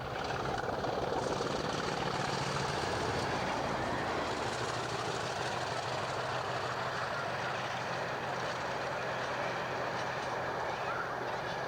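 Diesel train running past on the line, a steady loud rush of wheels on rail with a low engine hum underneath.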